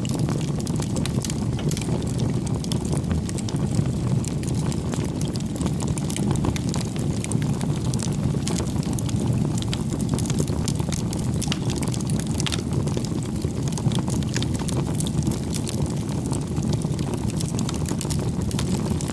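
Campfire burning: a steady low rushing of the flames with frequent small crackles and pops throughout.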